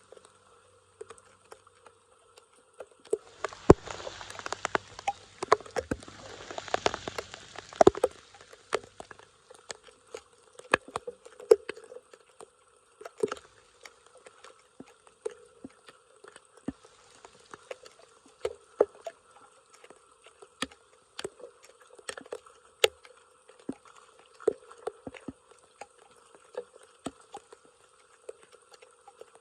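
Water dripping and plinking irregularly, with a denser stretch of splashing from about three to eight seconds in.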